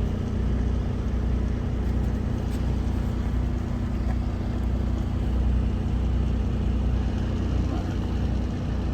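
Semi truck's diesel engine idling steadily, a constant low drone heard from inside the cab.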